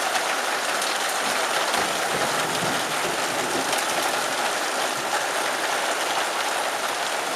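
Heavy rain pouring steadily in a severe storm, with the drumming of rain on a metal porch roof overhead.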